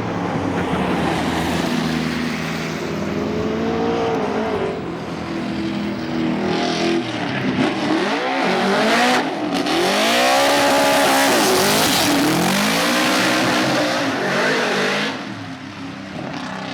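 Dodge-engined Holden Commodore drift car's engine revving up and down in repeated sweeps, with tyres squealing through the middle of the run. The engine note fades away sharply near the end.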